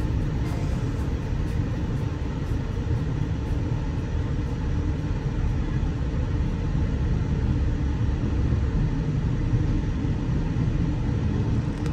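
Loaded coal hopper cars of a freight train rolling over a grade crossing: a steady low rumble of steel wheels on rail. The rear distributed-power locomotive passes near the end, and the rumble swells slightly.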